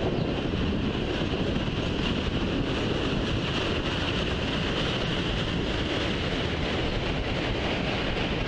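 Freight train of enclosed autorack cars rolling past: steady, unbroken noise of wheels on rail.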